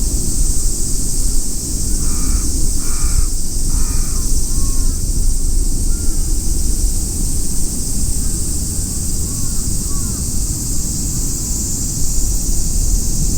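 A crow cawing three times, about two seconds in, over steady wind rumble on the microphone, with small birds chirping briefly now and then.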